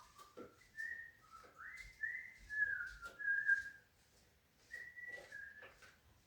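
A person whistling a short wavering tune in two phrases, pausing about four seconds in, with scattered light knocks and clicks.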